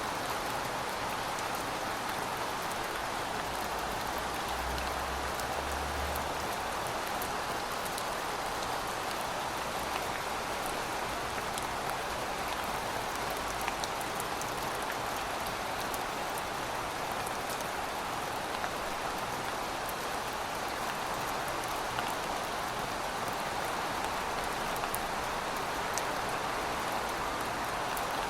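Steady rain falling on pavement: an even hiss with scattered sharper drop impacts, and a brief low rumble about five seconds in.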